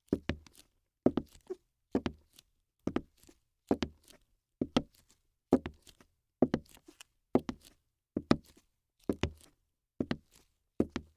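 Regular thuds, about one a second, each a quick double or triple knock, evenly paced throughout.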